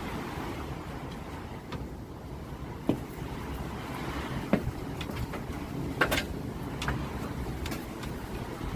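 Wind buffeting the microphone as a steady low rumble, with a few light clicks and taps scattered through it.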